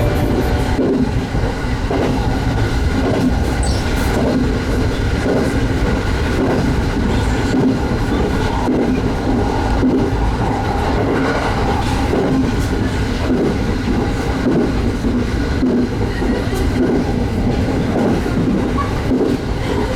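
Electric commuter train running on the line, heard from inside the car: a steady rumble of wheels on rails with occasional clacks over rail joints.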